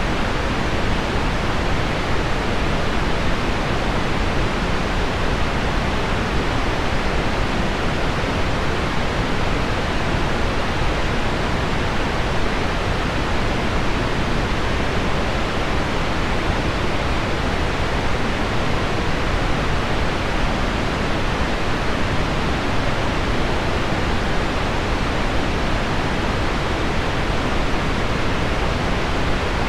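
Steady pink noise layered with heavy rain on window glass: an even, unbroken hiss with no single drops or changes standing out.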